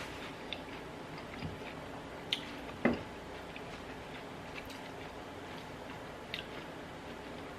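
Quiet eating sounds: a handful of small, irregular clicks and taps while chewing, one a little louder about three seconds in.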